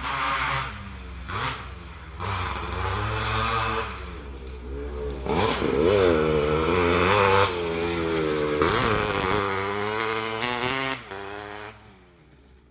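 Motorcycle with an aftermarket racing exhaust being revved repeatedly, its pitch rising and falling with each throttle blip. It drops back to a quiet idle about a second before the end.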